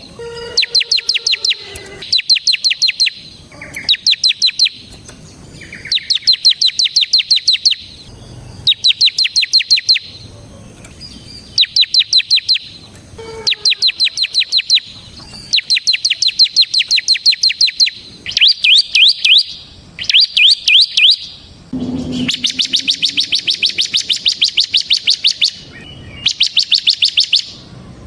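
Bar-winged prinia (ciblek) singing its fast, drill-like 'ngebren' song: bursts of rapid, evenly spaced high notes, each burst a second or two long, repeated over and over with short gaps.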